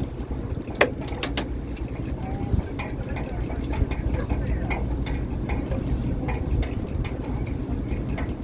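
Fishing boat's engine running steadily, with scattered sharp clicks and knocks of gear on deck.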